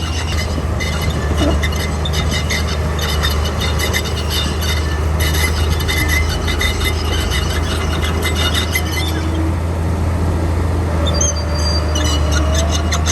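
Komatsu D41P crawler bulldozer working: its diesel engine runs with a steady low drone while the steel tracks clank, rattle and squeal. The track clatter stops for a couple of seconds near the end, then starts again.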